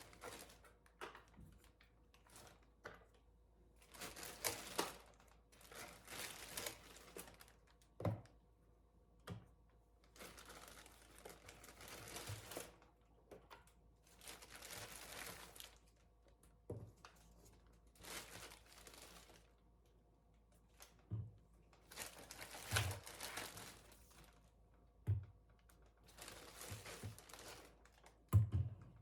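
Intermittent crinkling rustles from things being handled, each lasting up to a second or so, with several soft thuds in between; the last thud, near the end, is the loudest.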